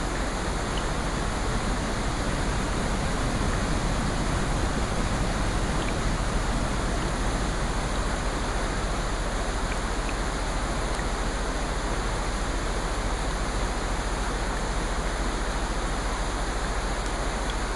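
Steady rushing water noise, swelling slightly a few seconds in, with a few faint scattered ticks.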